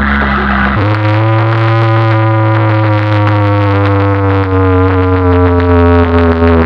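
Large DJ sound-system speakers playing a loud, droning electronic bass note with a stack of overtones. About a second in the note jumps to a new pitch, then sinks slowly.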